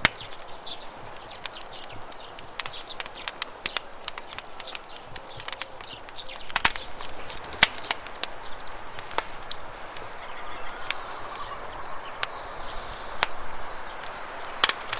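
Wood campfire crackling with irregular sharp pops over the steady rush of river water. A small bird calls in quick, high-pitched repeats in the last few seconds.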